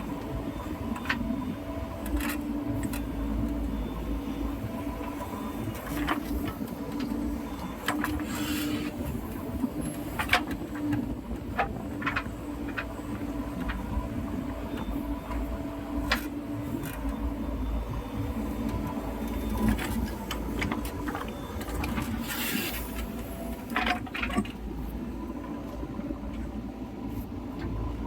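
JCB 3DX backhoe loader's diesel engine running steadily at work, with scattered sharp knocks and clanks.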